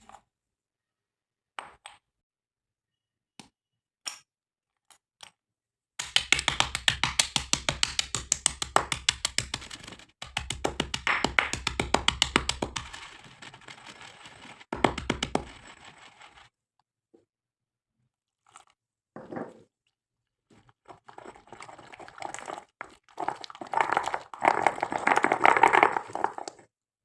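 Something brittle being crunched and broken up close. A few scattered snaps come first, then dense crackling crunching for about ten seconds, a pause, and another burst of crunching near the end.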